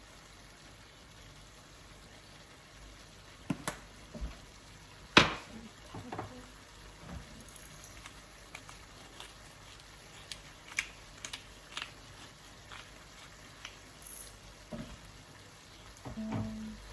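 Pan cooking: a utensil clinks and knocks against the pan about a dozen times, loudest about five seconds in, over a faint steady hiss of food cooking.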